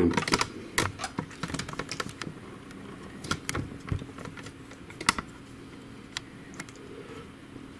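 Irregular light clicks and taps of plastic printer parts being handled and pulled off during disassembly of an HP DeskJet GT 5820 inkjet printer.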